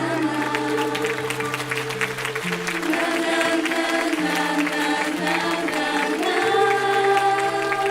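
Closing passage of a song: voices sing long held notes over sustained bass notes, with applause crackling underneath.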